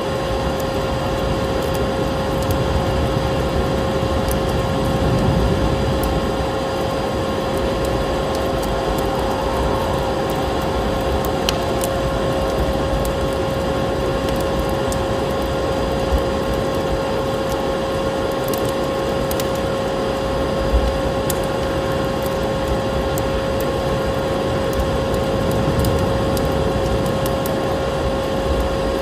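Wood fire crackling with scattered sharp pops over a steady whining motor hum, the sound of a vacuum cleaner running continuously, with an even rushing noise underneath.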